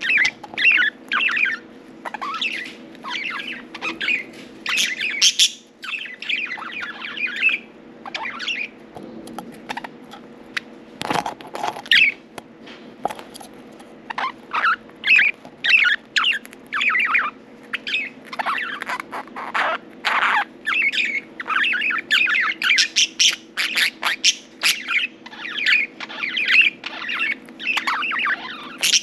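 Budgerigars chirping and chattering in quick, busy runs of short calls, with a brief lull about a third of the way in and a single sharp tap just after it. A steady low hum runs underneath.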